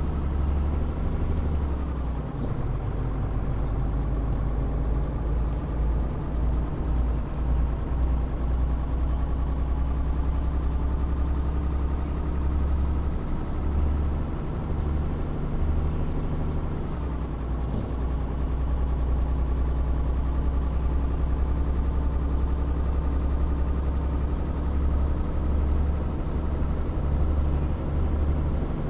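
Tanker truck's diesel engine running under way with a heavy low rumble, its pitch climbing slowly as the truck gathers speed. The pitch falls sharply twice, about two seconds in and again about halfway through, each time with a faint tick, as at a gear change.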